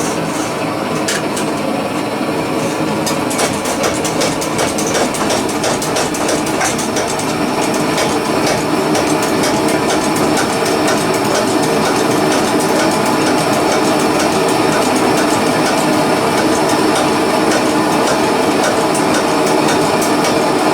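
Pressurised paraffin blow lamp burning, a steady dense rush of flame with fine crackling, growing a little louder over the first dozen seconds and then holding steady.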